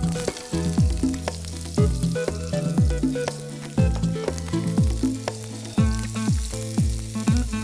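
Chopped onion sizzling as it goes into hot coconut oil in a frying pan and is stirred. Background music with a steady beat and held low notes plays over it.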